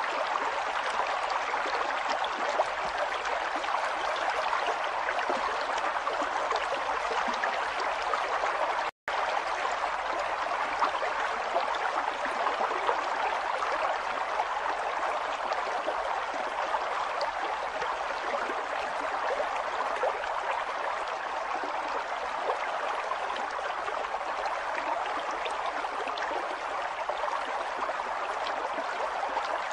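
River water flowing steadily, with a momentary dropout to silence about nine seconds in.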